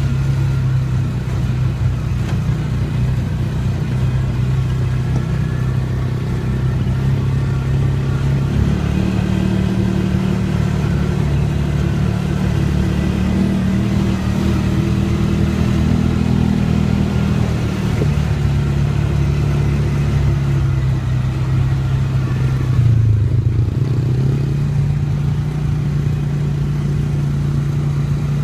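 Dirt bike engine running steadily. Its pitch steps up about a third of the way through, holds higher for about ten seconds, then drops back, with a brief dip later on.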